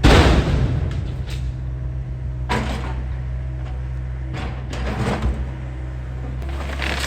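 Excavator's diesel engine running steadily, with a loud crash right at the start that dies away over about a second, then several shorter scraping, crunching knocks from the work.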